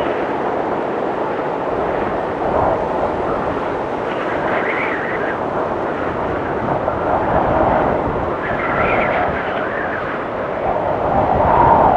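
Strong blizzard wind blowing steadily, with gusts that swell into a higher whistling howl about four seconds in and again about nine seconds in, and a louder surge near the end.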